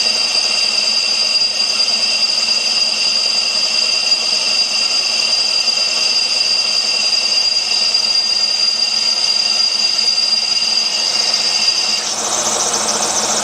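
A 1 hp twin-cylinder oil-sump Craftsman air compressor running, with a steady, high two-note whistle of air over the pump noise. About twelve seconds in, the whistle stops and the pump's sound becomes fuller as it starts building pressure.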